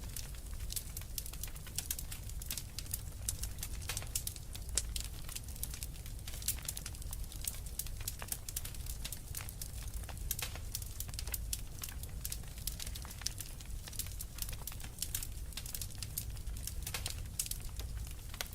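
Wood fire crackling with frequent irregular sharp pops and snaps over a steady low rumble.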